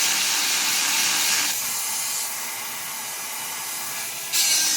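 Granberg 12-volt electric chainsaw sharpener's grinding bit lightly touching up chain cutters: two hissing grinding passes, the first stopping about a second and a half in and the second starting near the end. The light touch sharpens without taking much metal off or overheating the cutter.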